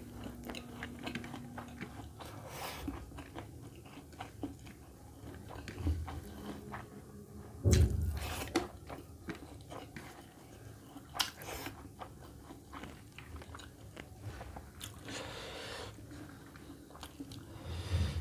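A person chewing and biting food close to the microphone, with crunchy bites and wet mouth sounds, eating mutton curry with rice and green chillies. A heavy low thump about eight seconds in is the loudest sound.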